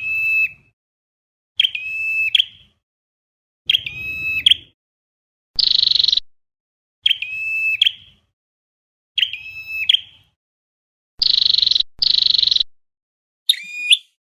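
Recorded call of the red-headed flowerpecker (chim sâu đầu đỏ), repeating on a loop as a trapping lure. Harsh buzzy notes alternate with sharp, tinny call notes, one every second or two.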